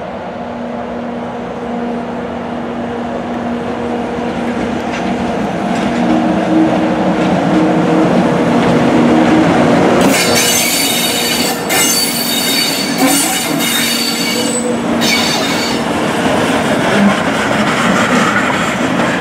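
Locomotive-hauled train of EF64 electric and D51 steam locomotives passing slowly at close range, a steady humming rumble growing louder as it approaches. From about halfway through, high-pitched wheel squeal comes and goes for several seconds as the locomotives go by.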